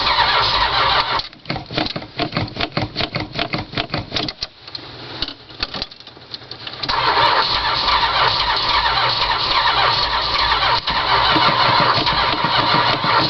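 1978 Dodge Ramcharger's 440 big-block V8 being cranked by its starter on a cold start without a working choke, and not catching. About a second in, the steady cranking gives way to a few seconds of fast, uneven pulsing and a quieter lull. Steady cranking resumes about seven seconds in.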